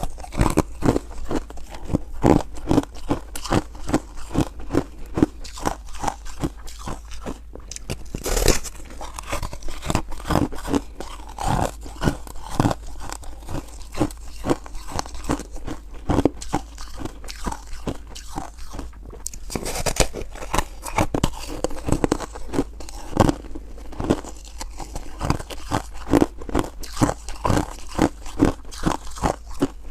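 Close-miked crunching and chewing of soft frozen ice, with rapid irregular crunches several times a second.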